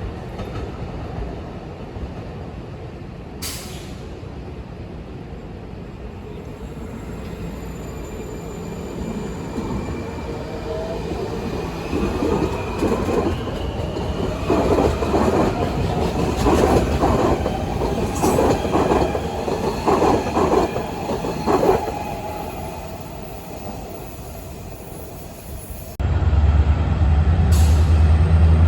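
A train going by on the rails: a running rumble that swells to a loud, rattling stretch of wheels on track in the middle, with faint wheel squeal, then fades. About 26 s in the sound cuts suddenly to a loud, low steady hum.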